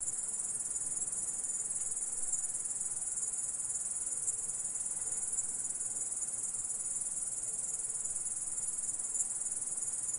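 Stridulating insect of the grasshopper and cricket kind, giving a continuous, high-pitched trill without breaks.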